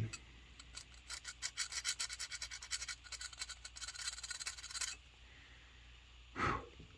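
Serrated knife edge being stroked through a hand-held serration sharpener: a quick run of short, rasping scrapes that stops about five seconds in.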